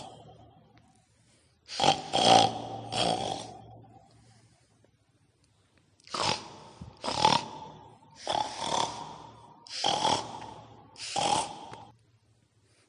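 Pig-like snorting grunts in a run of short, separate bursts, with a long pause after the first pair.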